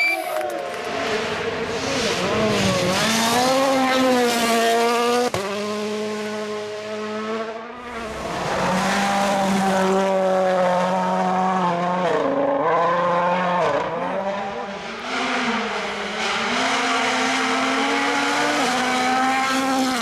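World Rally Car turbocharged four-cylinder engines at full attack on a rally stage, the engine note climbing and dropping again and again through gear changes. The sound changes abruptly about five seconds in and again near eight seconds, as one car gives way to the next.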